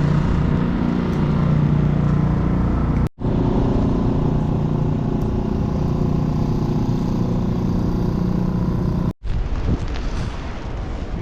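Steady low engine hum of a motor vehicle running nearby, with city street noise. The sound breaks off abruptly for an instant twice, a few seconds in and again near the end, and after the second break it is quieter and more wind-like.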